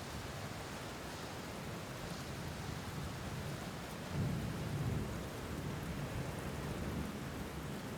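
Steady rain, with a low rumble of thunder swelling about four seconds in.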